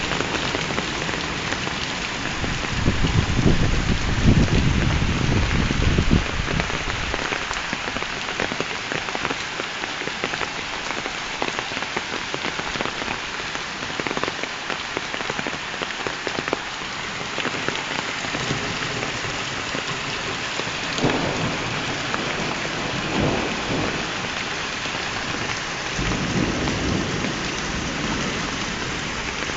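Heavy rain pouring steadily in a thunderstorm. Thunder rumbles low from about three to seven seconds in, and a fainter roll comes near the end.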